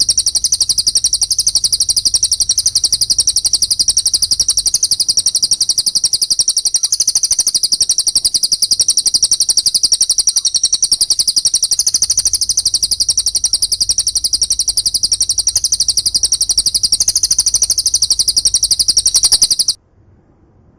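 Recorded small songbird chattering in a fast, unbroken run of rapid high notes, played as a training track for cage birds. It cuts off suddenly near the end.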